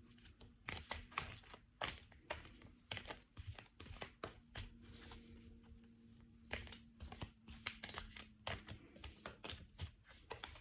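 Tarot cards being shuffled by hand: many quick, irregular soft slaps and flicks of card on card, over a faint steady hum.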